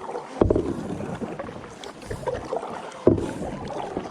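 Kayak paddle strokes splashing in the water, with two louder strokes, one about half a second in and one about three seconds in.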